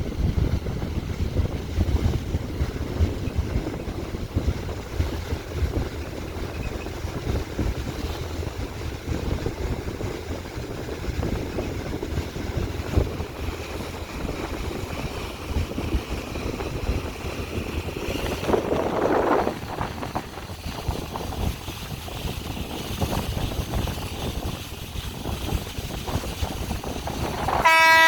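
Fast passenger boat's engines running with a steady low rumble and wind buffeting the microphone. Just before the end, a loud horn starts blaring on one steady chord.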